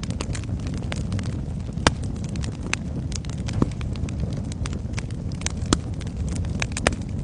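Wood fire in a fireplace crackling: a steady low rumble of flames with many sharp irregular pops and snaps, a few louder ones standing out.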